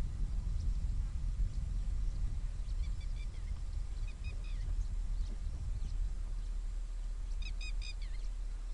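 A small bird calls in short runs of quick high chirps: once about three seconds in, again around four seconds, and loudest near the end. Under the calls runs a steady low outdoor rumble.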